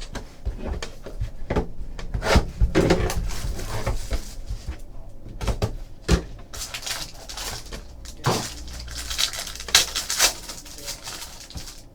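Trading card packaging being handled and opened by hand: rustling and crinkling of plastic wrap and cardboard, with scattered knocks and clicks; the rustling is densest in the second half.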